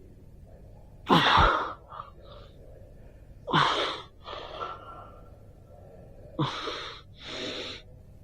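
A person's loud, sharp breaths, three in a row about two and a half seconds apart, each followed by a softer breath.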